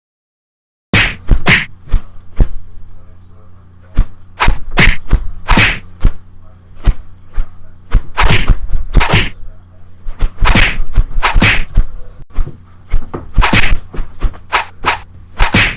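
A rapid, irregular series of sharp whacks and thuds over a steady low hum, starting suddenly about a second in.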